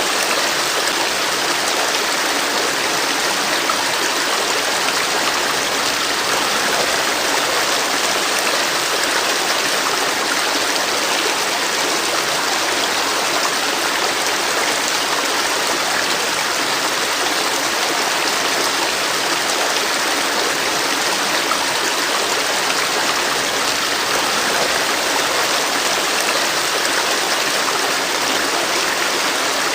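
Flowing river water rushing and splashing steadily over rocks, an even, unbroken sound.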